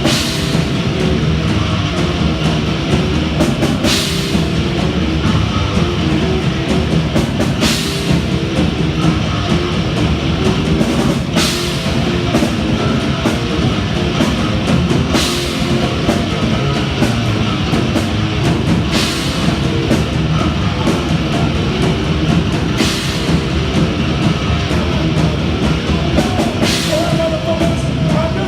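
Death metal band playing live: heavily distorted electric guitars and bass over fast, dense drumming, with a cymbal crash about every four seconds.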